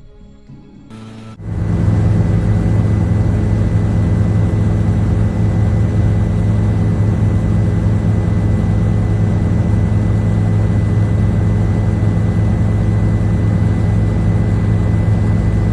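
A loud, steady engine drone holding one pitch, with a faint thin high whine above it, cutting in abruptly about a second and a half in.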